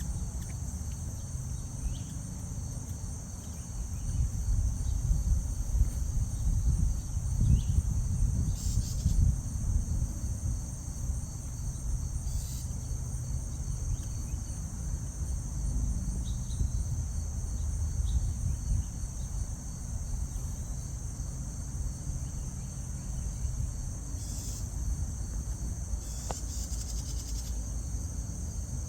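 Steady high-pitched insect chorus of crickets, with a low rumble that swells between about four and twelve seconds in and a few brief high chips.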